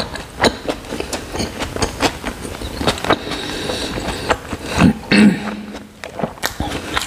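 Close-miked wet chewing and lip-smacking of a mouthful of chicken curry and rice, many irregular short clicks, with fingers squishing curry-soaked rice on the plate. A short low hum a little past five seconds in.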